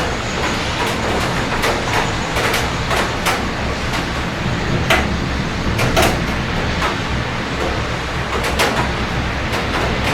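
Steady heavy rain over the city, with sharp irregular taps of drops landing close by and a low rumble of city traffic underneath.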